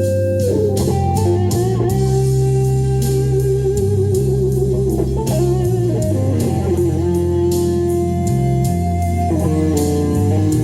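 A lead guitar plays long held melody notes, sliding and bending with vibrato, over a backing track of bass and drums.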